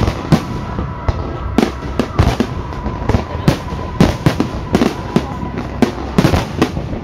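Aerial fireworks shells bursting in a rapid, irregular series of loud bangs, some close together, some with a short rumbling tail.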